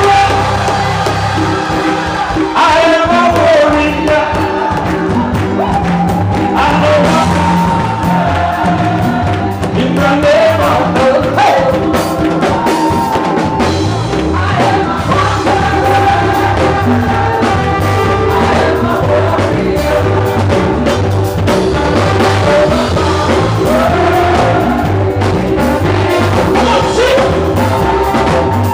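Live gospel praise-and-worship music: voices singing over a band with a steady bass line and drums.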